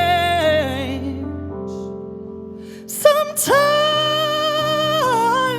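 Live female vocal with instrumental accompaniment: a held sung note fades out in the first second, the accompaniment sustains alone briefly, then about three and a half seconds in she sings "Sometimes" on a long held note.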